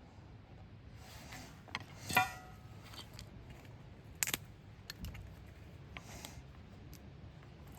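Small hard objects being handled: a few light clicks, with a ringing clink about two seconds in and a sharp click about two seconds later.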